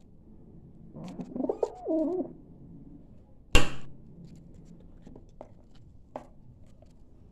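A dove cooing: one low, wavering coo about a second in. A sharp knock follows a couple of seconds later and is the loudest sound, with a few faint taps after it.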